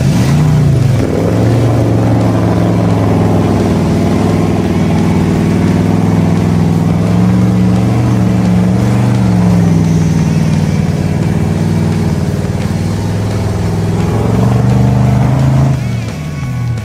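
Engine running hard at high revs, its pitch wavering slightly up and down, then falling away about a second before the end.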